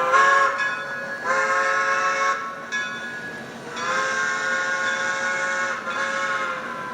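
Steam locomotive whistle blowing a series of steady chime blasts, a short one, then a longer one, then the longest, about two seconds, then another short one near the end.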